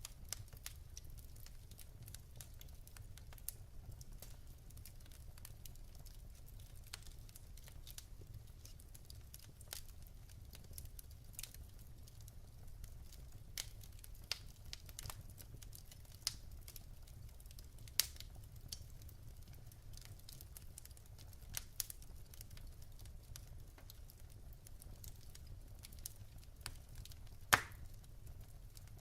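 Wood fire in a fireplace crackling: irregular sharp pops and snaps of burning logs over a steady low rumble, with one louder pop near the end.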